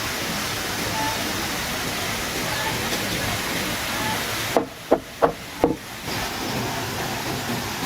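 Steady rushing noise. About four and a half seconds in it drops away and four sharp knocks follow in quick succession, about a third of a second apart, before the noise returns.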